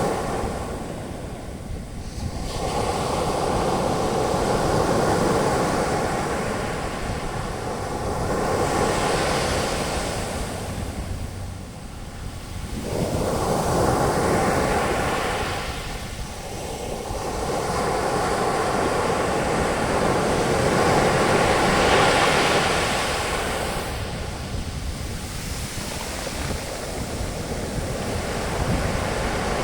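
Ocean surf: waves breaking and foaming up the beach, the wash swelling and falling back in slow surges every few seconds.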